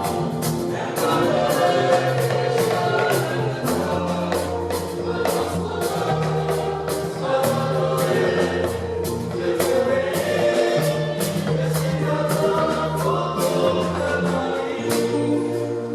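Gospel choir singing over a band with a steady beat and bass line.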